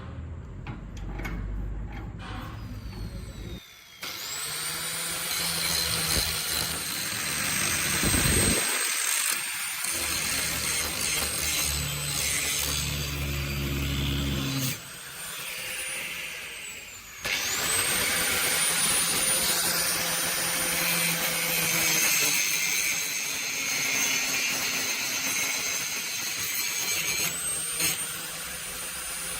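Electric grinder working steel: the motor spins up to a high steady whine three times, with harsh grinding noise while it runs.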